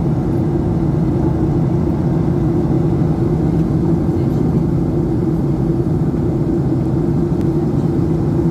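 Steady cabin drone of a Boeing 737-800 in flight: engine and airflow noise heard from inside the passenger cabin, an even, unbroken hum.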